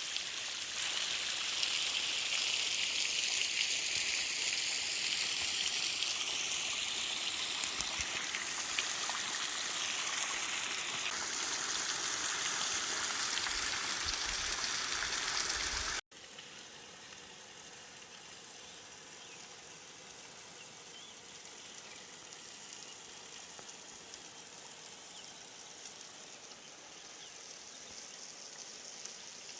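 Waterfall running low, a thin trickle falling and splashing with a steady hiss. About halfway through, the sound cuts abruptly to a quieter, steadier water hiss.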